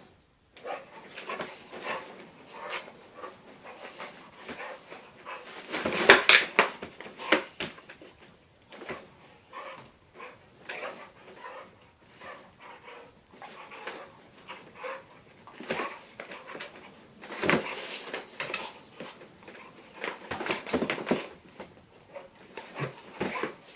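A pet dog and cat play-fighting: irregular scuffling and knocks with the dog's noises, in flurries that are loudest about six seconds in and again around seventeen to twenty-one seconds in.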